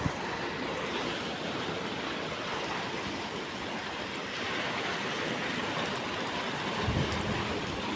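Heavy rain pouring steadily in a storm, an even hiss with a brief low rumbling thump about seven seconds in.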